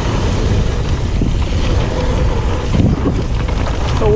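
Wind buffeting the microphone over the steady rumble of a mountain bike rolling down a dirt trail, with scattered small knocks and rattles from the bike.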